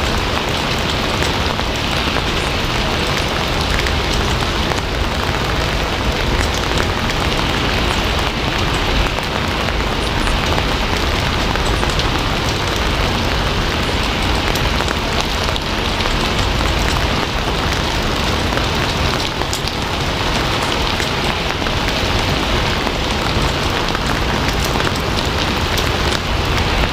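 Steady heavy rain falling on a surface, with a dense even hiss and fine scattered drop patter.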